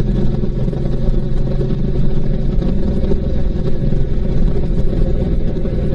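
Honda VTX1800C's big V-twin engine running steadily as the motorcycle rides along.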